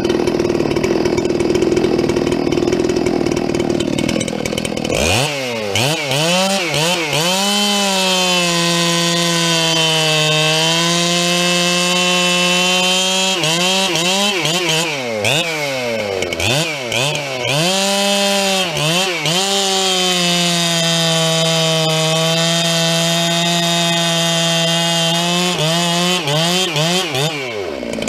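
Two-stroke chainsaw running hard while bucking firewood. For the first few seconds it sounds rough and noisy; then its engine pitch repeatedly dips and recovers as the chain loads up in the wood, with steadier stretches between.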